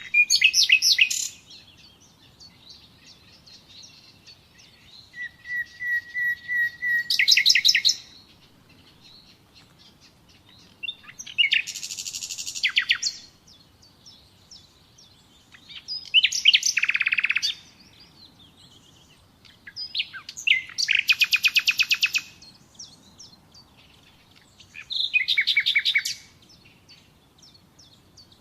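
Common nightingale singing: separate phrases every few seconds, each a fast run of repeated notes. One phrase opens with a string of pure whistled notes that swell louder before breaking into a rapid trill.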